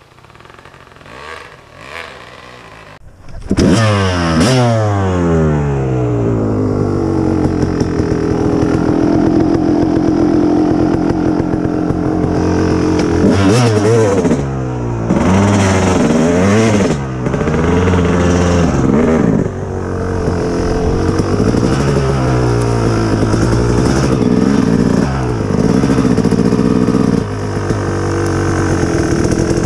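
Kawasaki KX250 two-stroke dirt bike engine firing up about three seconds in. It comes in high and settles to an idle, then is revved up and down several times.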